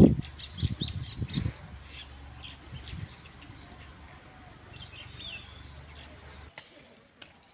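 Small birds chirping in short high notes, several in the first second and a half and again about five seconds in. A few dull low thumps sound in the first second and a half.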